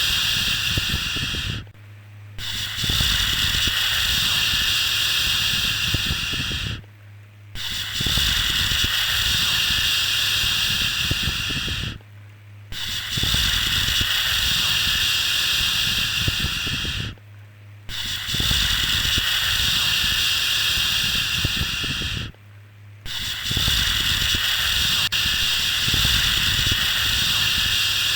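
Long, steady 'shhh' shushing sounds, each held for about four and a half seconds, with a short break between them, repeating about every five seconds. A faint low hum runs underneath.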